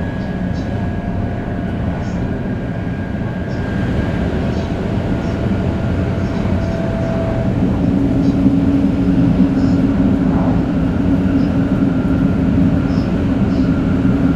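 500 series Shinkansen running at speed: a steady rumble of the train with the whining tones of its Toshiba GTO-VVVF traction inverter. About halfway through, the tones change pitch and a deeper hum comes in, and the sound grows a little louder.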